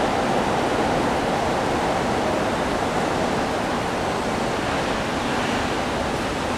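Steady rushing noise of electric trains rolling slowly over the station tracks, easing off a little.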